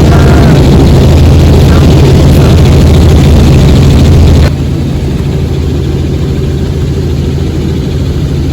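Helicopter engine and rotor noise heard from inside the cabin: a loud, steady low drone. About halfway through it drops abruptly to a quieter, duller level.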